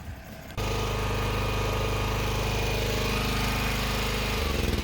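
Tractor engine running steadily, starting abruptly about half a second in. Near the end the note shifts and turns into an uneven pulsing.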